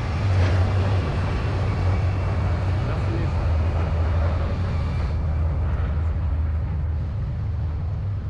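A motor vehicle's engine running close by, a steady low rumble under street noise; the higher hiss drops off about five seconds in.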